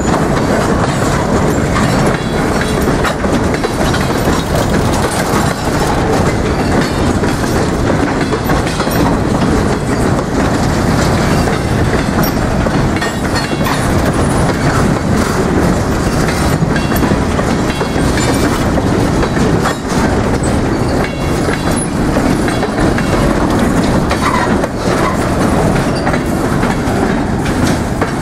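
A freight train's boxcars rolling past, with a loud, steady noise of steel wheels on the rails that holds unbroken throughout.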